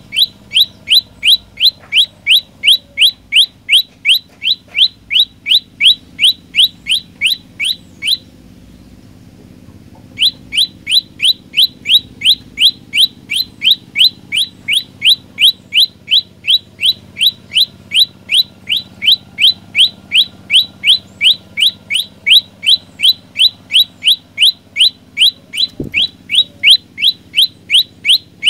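Prenjak lumut singing a fast, even string of sharp high chirps, about three a second. The notes stop for about two seconds a third of the way through, then start again at the same pace.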